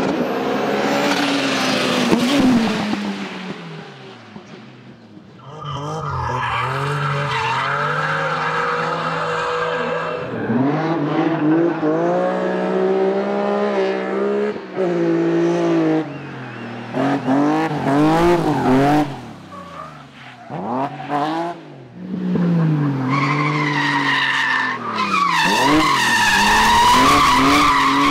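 Racing car engines revving hard through the gears: several passes cut one after another, the pitch climbing and falling back at each shift. Tyres squeal in the last few seconds.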